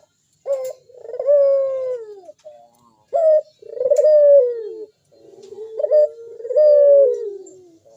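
Local puter dove (a turtle dove kept as a cage bird) cooing three times, each call a short opening note followed by a long coo that falls in pitch.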